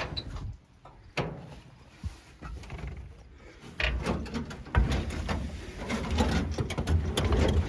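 A few clicks and knocks, then about four seconds in the 1940–41 Chevrolet army dump truck's six-cylinder engine is cranked and starts right away, despite running on old gas, and keeps running.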